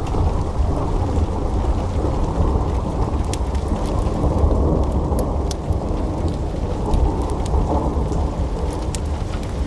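Wood fire burning in a fireplace: a steady low rushing noise with scattered sharp crackles and pops from the logs.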